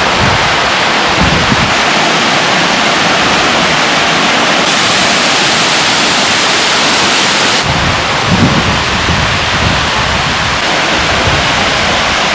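Waterfall rushing: a loud, steady wash of falling water, its tone shifting abruptly a few times.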